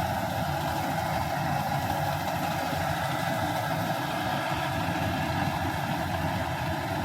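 Combine harvester's engine running steadily, an even drone with no change in speed.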